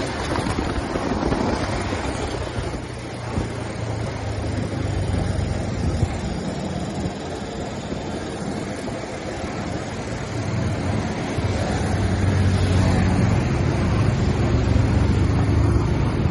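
TVS Apache RTR 180 single-cylinder engine and exhaust running while the motorcycle rides along, with wind noise on the microphone. The engine grows louder about two-thirds of the way through.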